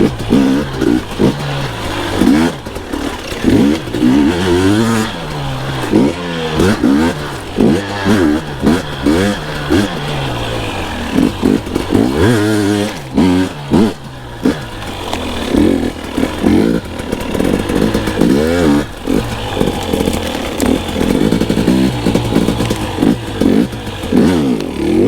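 Two-stroke enduro dirt bike engine being ridden, revved up and backed off again and again, its pitch rising and falling many times.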